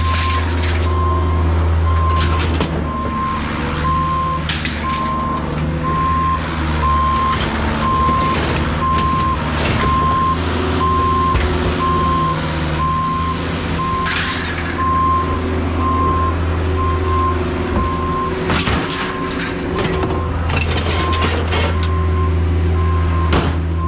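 A vehicle's backup alarm beeping steadily over the low drone of its running engine, with several sharp metal clanks about three quarters of the way through.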